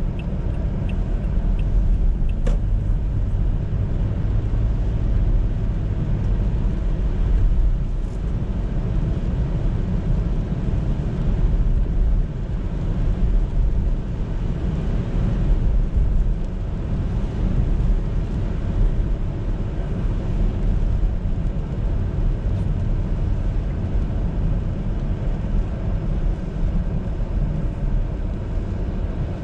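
Car driving along a city road, heard from inside the cabin: a steady low rumble of engine and tyre noise. A few light, evenly spaced ticks sound right at the start, and there is a single click a couple of seconds in.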